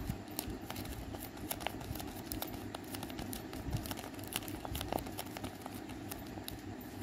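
A handmade paper squishy crinkling as it is squeezed between the thumbs, with many irregular little crackles.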